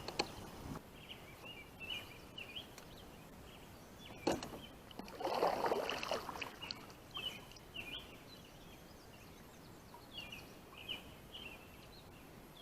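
Quiet riverside ambience with a small bird chirping on and off in short high phrases. There is a click about four seconds in, then a brief louder noisy patch lasting about a second and a half.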